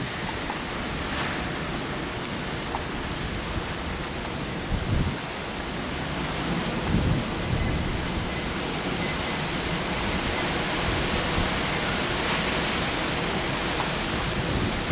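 Typhoon rain and wind: a steady hiss of heavy rain with low gusts buffeting the microphone. The noise swells slightly louder over the second half.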